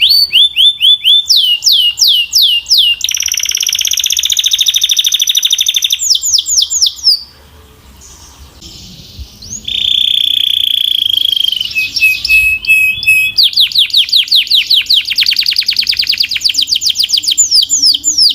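Domestic canary singing: runs of fast, rapidly repeated notes and rolling trills. About seven seconds in the song breaks off for a couple of seconds, then resumes with a held whistled note and a long, very fast trill.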